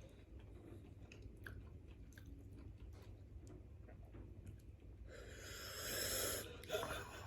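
Close-up chewing and biting of food, with faint wet clicks scattered throughout. About five seconds in there is a louder hissing burst lasting over a second, followed by a short sharp sound.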